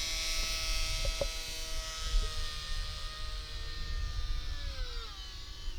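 Small RC plane's electric motor and propeller whining steadily in flight, the pitch dropping about five seconds in. Wind rumbles on the microphone.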